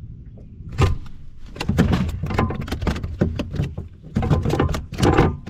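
A freshly caught spotted bass thrashing on the kayak: a run of irregular knocks, thumps and rattles, heaviest in two clusters.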